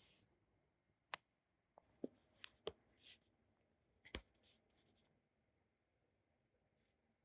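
Near silence, room tone broken by a handful of faint, short clicks and taps between about one and four and a half seconds in.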